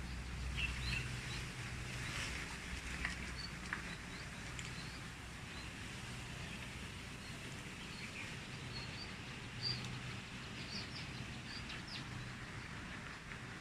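Outdoor ambience: scattered short, high bird chirps over a low, steady hum.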